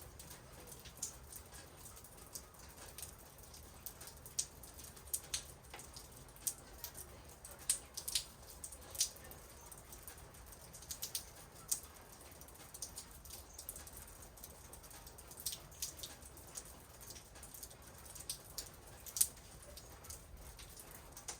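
Rain in a backyard, with scattered drops ticking and pattering at irregular intervals over a faint steady hiss and a low rumble.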